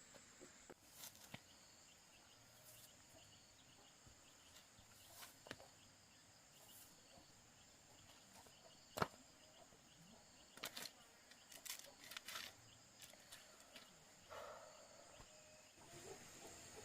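Faint outdoor quiet with a steady high insect chirring. Scattered light clicks and knocks sound over it, the sharpest about nine seconds in and a cluster a few seconds later.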